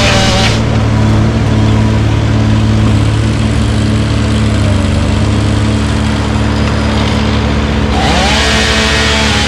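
Large engine running steadily at a constant speed. A wavering higher-pitched whine rises over it about eight seconds in.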